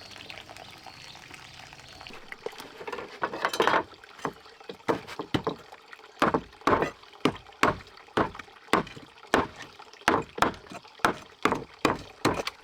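Water splashing in a quick, even rhythm, about two splashes a second, starting a couple of seconds in after a quiet hiss.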